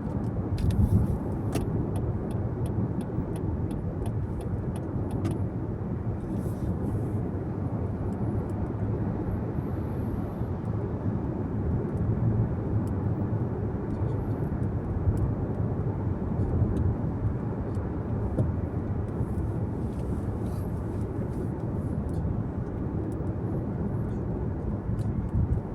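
Steady road and engine noise of a car driving at night, heard as a low, even rumble inside the cabin. A run of faint ticks sounds in the first few seconds.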